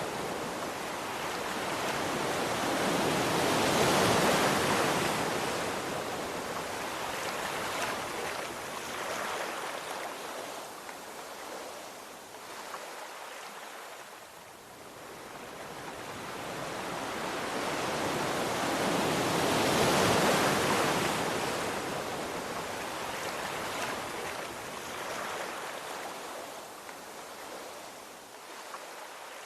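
Ocean waves washing on a shore: a steady hiss of surf that slowly swells and fades, with two broad surges, one about four seconds in and one around twenty seconds in.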